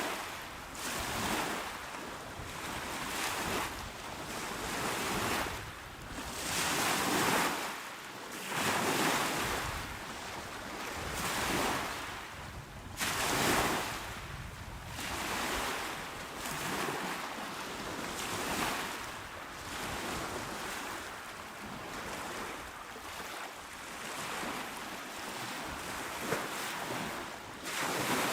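Small, calm waves washing onto a shore, each one a swell of surf noise that rises and falls every few seconds, a few stronger than the rest. Some wind rumble on the microphone lies under it.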